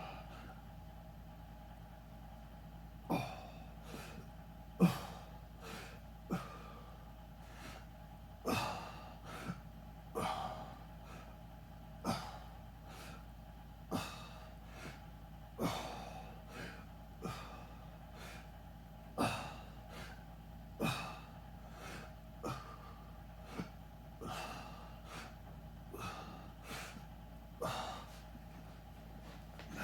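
A person breathing out sharply, one short breath about every one to two seconds, in time with exercise repetitions. A steady low hum runs underneath.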